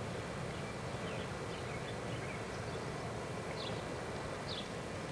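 Faint, short high chirps of small birds, a handful scattered through, over a steady low outdoor background hum.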